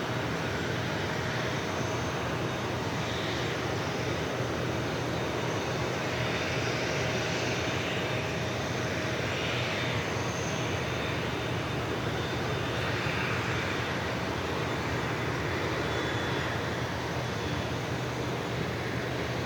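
Jet engines of an Airbus A350-900, Rolls-Royce Trent XWB turbofans, running steadily: an even rushing noise at a constant level with a faint steady whine.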